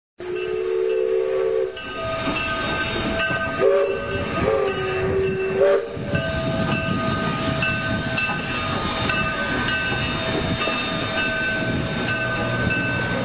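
Train sound effect: a multi-tone train whistle blasts at the start and again, wavering in pitch, from about four to six seconds in, over steady rolling, hissing train noise.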